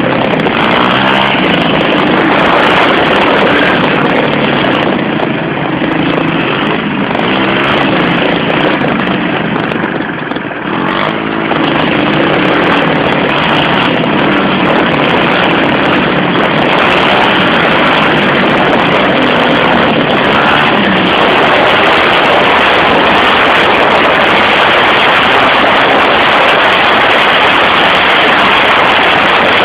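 110cc pit bike's single-cylinder four-stroke engine running loud and hard, easing off briefly about ten seconds in.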